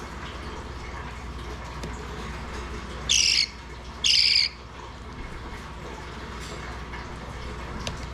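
Baby parakeet giving two short, loud squawks about a second apart: the begging calls of a hungry chick being hand-fed with a syringe.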